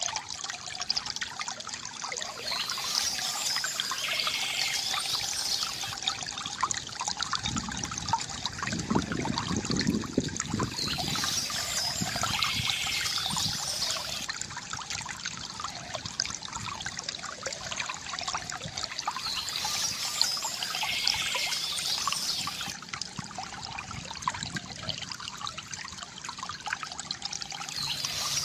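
Water from a bamboo fountain trickling and pouring steadily, with a heavier, deeper gurgle about eight to ten seconds in. Birds chirp in short spells that return every eight or nine seconds.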